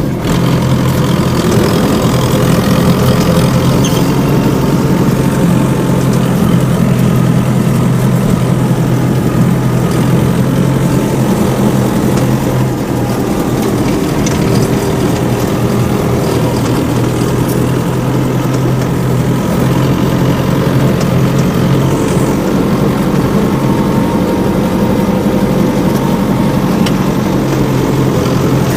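Homemade mini tractor's engine running steadily.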